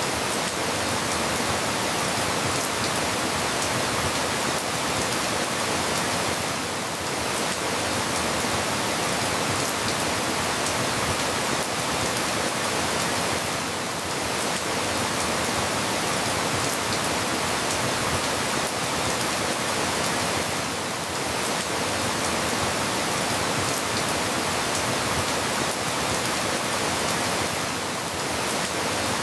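Steady rain falling in a dense, even hiss. The loudness dips slightly about every seven seconds.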